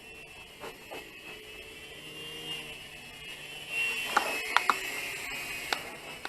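Small electric motors and counter-rotating rotors of a mini coaxial RC helicopter whining in flight. The whine grows louder about four seconds in, and a few sharp clicks follow.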